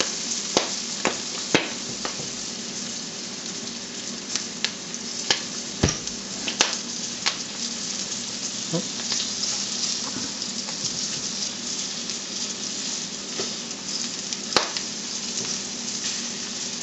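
Flour-dredged rabbit livers sizzling in hot oil in a nonstick frying pan while a fork turns them, with a steady hiss and scattered sharp clicks.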